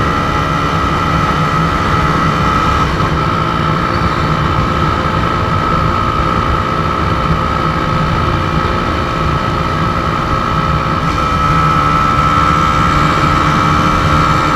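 Motorcycle engine running at a steady speed while riding, with heavy wind rumble on the microphone.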